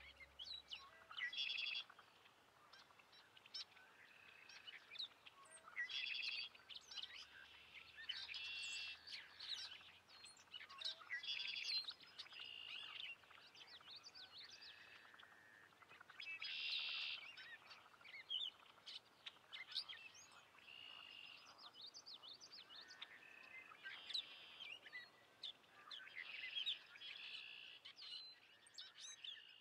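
Many birds calling: short, high chirps and whistles, overlapping in clusters every second or two.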